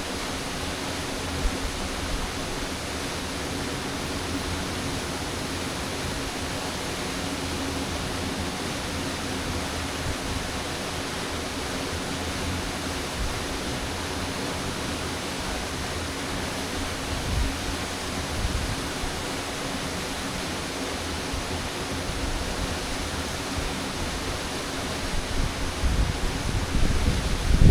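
Waterfall rushing with a steady, even roar of falling water. Low gusty rumbles come in near the end.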